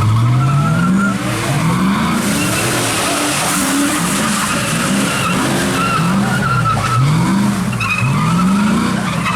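A car engine revving up again and again, about once a second, each rev climbing and then dropping back, with its tyres spinning and skidding through donuts on wet pavement.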